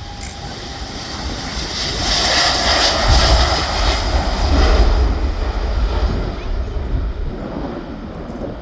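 Jet airliner taking off and passing by: a steady engine roar that swells to its loudest about three to five seconds in, then fades away.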